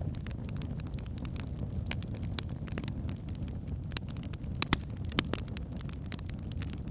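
Log fire burning in a fireplace: a steady low rumble with frequent sharp crackles and pops, the loudest pops a little after halfway.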